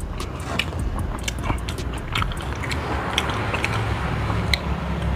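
Close-up chewing of fried catfish and rice, with many short crunchy clicks and wet mouth sounds.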